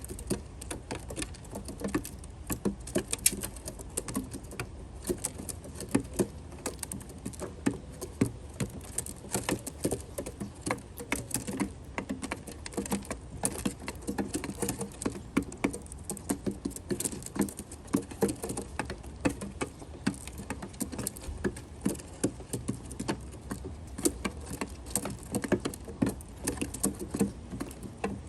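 Rock pigeons pecking seeds and nuts off a feeding platform: a dense, irregular run of sharp taps and clicks.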